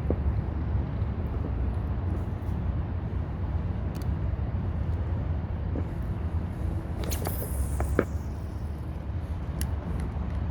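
Wind buffeting the phone's microphone as a trolling-motor kayak moves across the water, a steady low rumble. There are a few light knocks in the middle.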